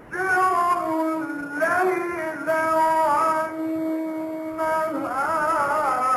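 A man's voice chanting Quran recitation in the melodic tajwid style: long held notes with wavering ornaments, a new phrase beginning about a second and a half in and another near the end.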